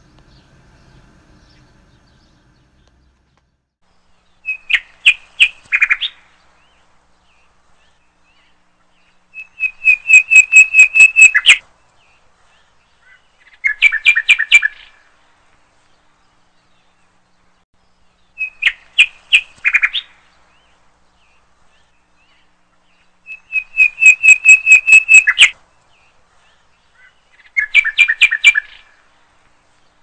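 A songbird singing in six short phrases of rapid repeated notes a few seconds apart; the same run of three phrases is heard twice over.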